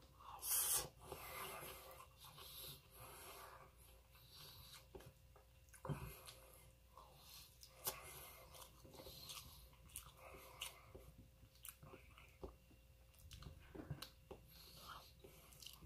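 A person chewing mouthfuls of soft rice and shrimp-stuffed tofu, with soft, irregular mouth sounds and occasional small sharp clicks.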